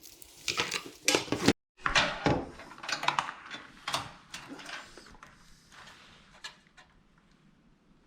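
Handling noise of cables and parts being worked into a PC case: irregular rustling and scraping with sharp clicks and knocks, busiest in the first half.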